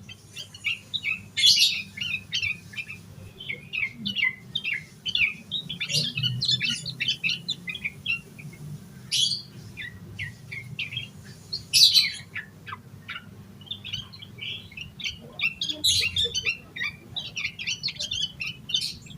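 Yellow-vented bulbul (trucukan) singing continuously in agitated full song: a rapid run of short, bright chirping notes, with louder bursts every few seconds. A faint steady low hum lies underneath.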